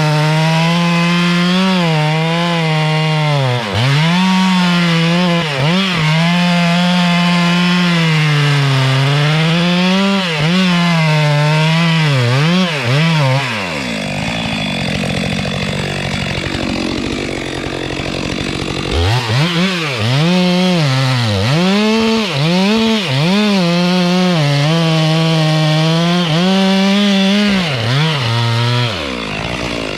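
Two-stroke chainsaw at full throttle cutting into a hardwood tree, its high engine note sagging and recovering again and again as the chain bites and bogs in the cut. About fourteen seconds in the steady note breaks into a rougher, noisier sound for several seconds, then the saw is back cutting under load until near the end.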